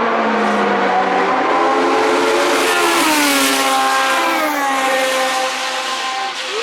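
Historic Formula One car's racing engine running at high revs on the circuit, its pitch falling about halfway through as it passes and comes off the throttle.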